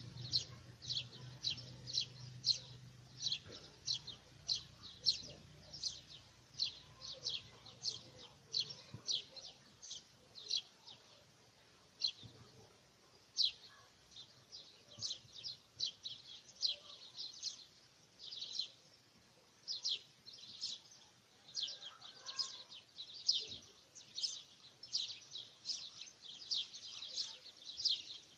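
Birds chirping: a steady run of short, high chirps, about two or three a second, with brief pauses now and then.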